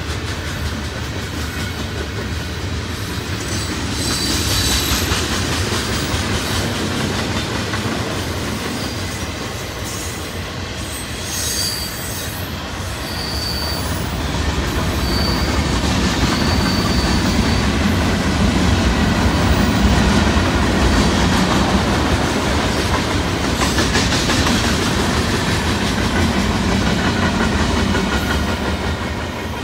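Freight cars of a mixed manifest train rolling past at speed: a steady rumble of steel wheels on rail with rail-joint clatter, growing louder in the second half. A few short, high wheel squeals come about 5 seconds in and again between about 12 and 17 seconds in.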